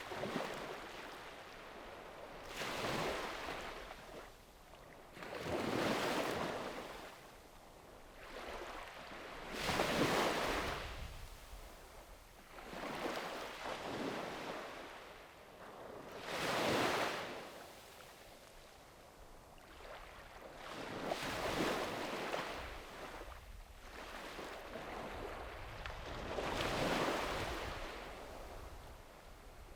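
Sea waves breaking and washing up on a beach, the surf noise swelling and fading again about every three to five seconds.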